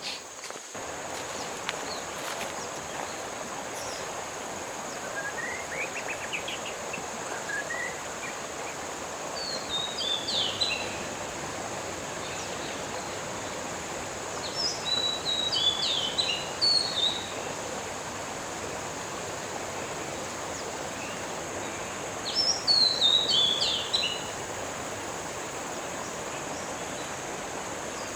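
Birds calling in three bursts of quick, descending chirps several seconds apart, with fainter rising chirp series before the first, over a steady rushing background noise and a constant high-pitched hiss.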